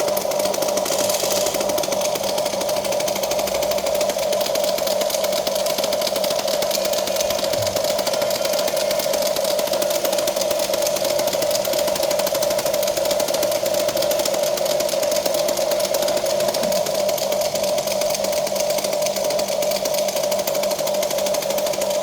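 Huina remote-control toy excavator's small electric motors and plastic gearboxes whirring steadily, a continuous high buzzing whine.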